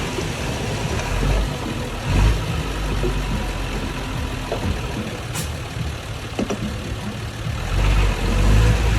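Heavy earth-moving machinery engine running steadily at low revs, with a few short knocks, a sharp one about five seconds in.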